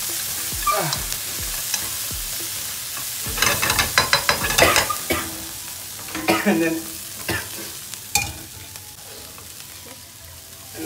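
Fried fish pieces and chilli-garlic paste sizzling in a nonstick frying pan while a spatula tosses and scrapes them, with a run of loud clattering strokes about three to five seconds in. The sizzle fades near the end.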